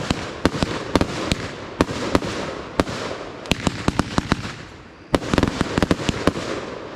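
Fireworks going off: an irregular string of sharp bangs over continuous crackling. It thins out about four and a half seconds in, then a dense new flurry of bangs starts about a second later.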